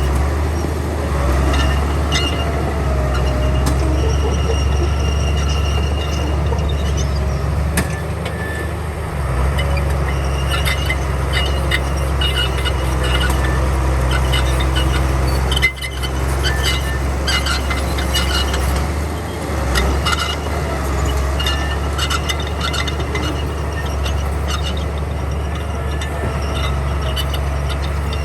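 Bulldozer's diesel engine running steadily under load, with scattered metal clanks and squeals over the rumble and a brief break about halfway through.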